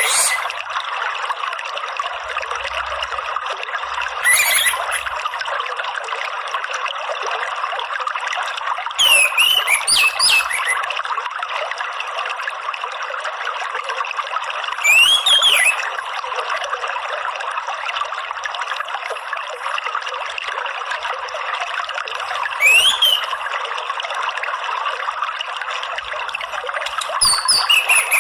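Steady rush of running water under an orange-headed thrush singing short, bright phrases with rising notes, five separate phrases a few seconds apart.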